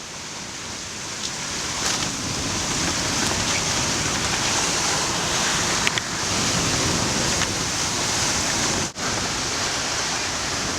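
Steady rush of wind and waves aboard a sailboat under sail in a strong wind, with wind buffeting the microphone. It cuts out for an instant about nine seconds in.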